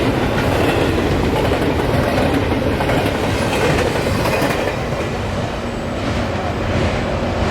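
Train passing, a steady rumble with the clatter of its wheels running over the rails.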